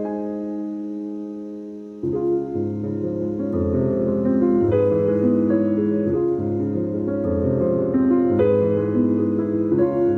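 Background piano music: a held chord slowly fading, then a fuller passage with low bass notes coming in about two seconds in.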